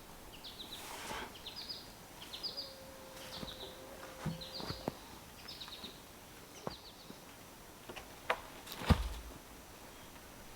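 A bird calling over and over in short runs of three or four quick high chirps. A few sharp knocks sound among them, and a louder thump about nine seconds in.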